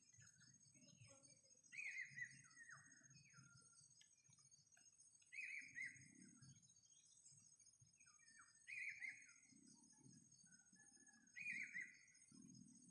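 A bird calling four times, about every three and a half seconds, each call a short run of falling notes, over a steady high insect drone.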